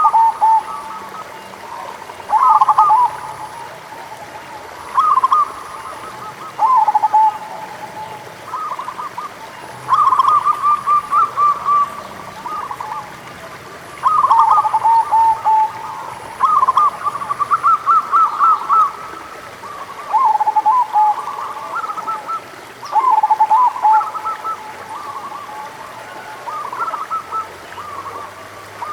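Zebra doves (perkutut) cooing: bursts of quick, stuttering coo notes follow one another every one to two seconds, with overlapping phrases that suggest more than one bird.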